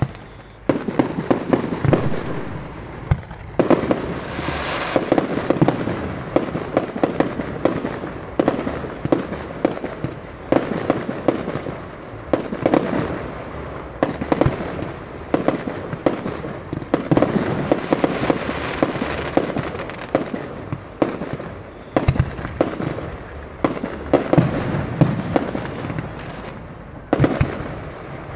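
A fireworks barrage fired from the ground: shots launch and burst in quick succession, about one to two bangs a second, over constant crackling.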